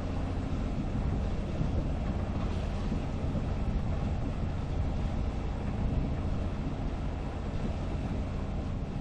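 Sailboat's inboard auxiliary engine running steadily under way, its sound mostly low-pitched and even.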